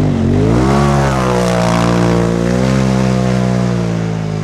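Polaris RZR Turbo S side-by-side's turbocharged twin-cylinder engine revving, the pitch dipping at first, then climbing and holding high before falling away at the end.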